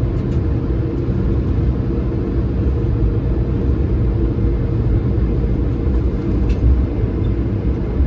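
Steady low rumble in the cabin of an Airbus A220-300 taxiing, its Pratt & Whitney PW1500G geared turbofan engines running and the airframe rolling on the taxiway, with a few faint small clicks.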